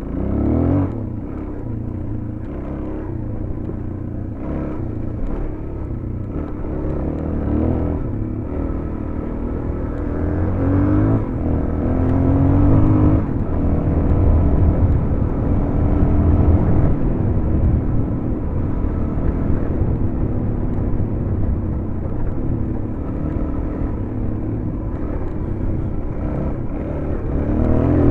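Suzuki DR-Z400's single-cylinder four-stroke engine running under load while riding, the pitch rising as the throttle opens about a second in, again partway through, and near the end.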